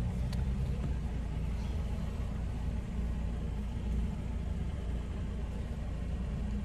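A car engine idling: a steady low rumble heard from inside the car's cabin.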